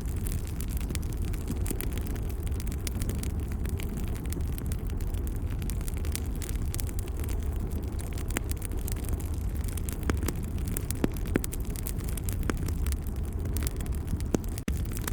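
Wood fire crackling, with irregular sharp pops and snaps over a steady low rumble of the flames. The sound drops out for a split second near the end.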